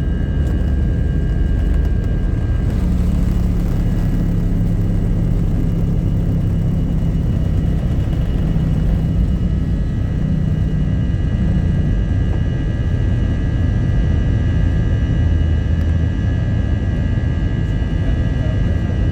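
Jet airliner's engines running, a steady low rumble with a steady high whine over it.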